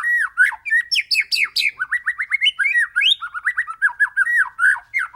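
White-rumped shama (murai batu) in full song: an unbroken, rapid run of short whistled notes and sharp chips, many to the second, with no pauses.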